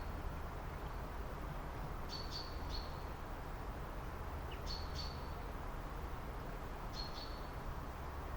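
A small bird calling in short groups of two or three sharp, high chirps, three times about two to three seconds apart, over a steady low background rumble.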